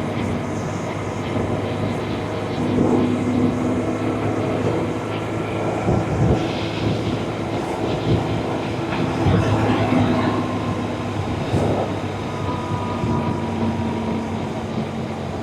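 BMW R1100RT's boxer-twin engine running while the motorcycle is ridden, with rushing wind noise over it; the engine note shifts up and down a few times.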